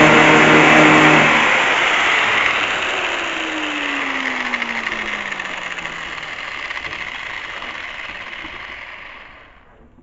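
A power tool, most likely an electric angle grinder, cut off about a second in and winding down. Its steady hum stops, and the whir fades with a slowly falling pitch until it dies away near the end.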